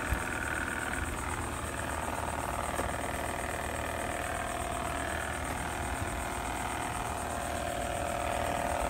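Robot vacuums running, a steady motor whir with a held whine from their fans and brushes.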